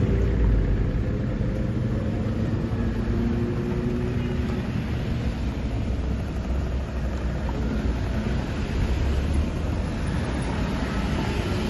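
Mercedes-Benz SLK roadsters and other cars driving slowly past, their engines making a steady low rumble, with engine tones that rise and fall gently in the first few seconds.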